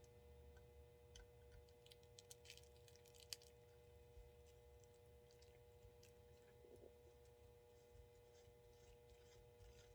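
Near silence: room tone with a steady faint hum and a few faint small clicks, the sharpest about three seconds in.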